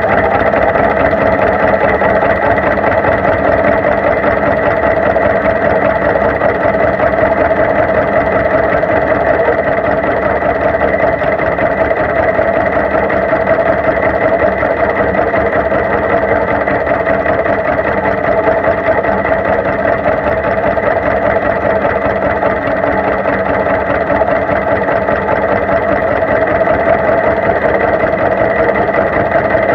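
Two-cylinder engine of a 1949 John Deere G tractor running steadily at an even speed.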